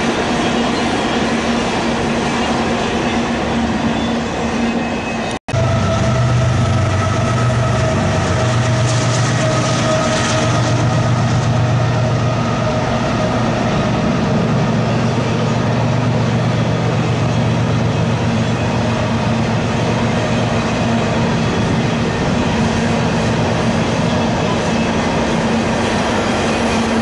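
Double-stack intermodal freight train rolling past, a steady rumble of wheels on rails. The sound cuts out briefly about five seconds in, and after it a thin steady whine sits over the rumble.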